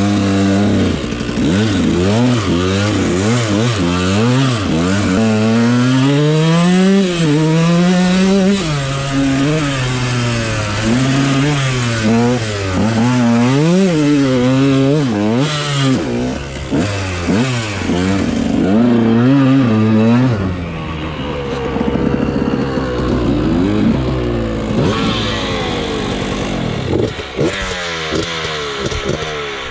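Dirt bike engine being ridden, its pitch rising and falling again and again under throttle, with the engine settling lower and steadier for a while after about twenty seconds.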